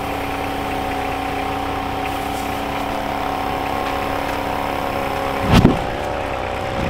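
A motor vehicle's engine running at a steady speed. About five and a half seconds in there is one loud thump, and the engine's pitch dips briefly just after it.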